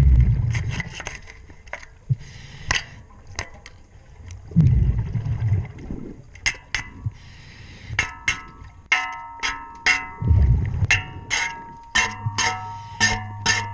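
Underwater recording of a scuba diver's regulator exhaling, three low rushing bursts of bubbles about five seconds apart. Between them come repeated sharp clicks and ticks from cleaning the propeller. From about two-thirds of the way in, steady ringing tones join the clicks.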